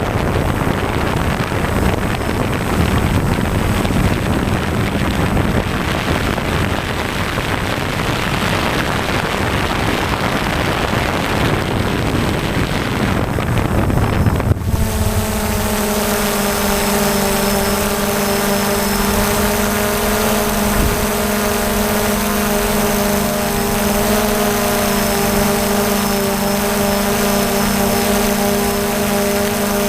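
DJI Phantom quadcopter's motors and propellers running. For about the first half it is mostly an even rushing noise, then about halfway through it switches abruptly to a clear, steady whine of several held tones.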